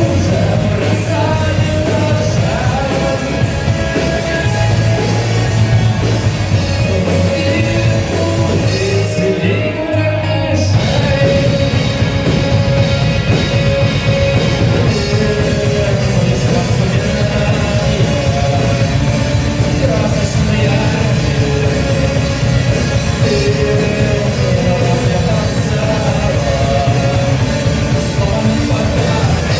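Rock band playing loud, steady music with singing. The high end drops away briefly about ten seconds in.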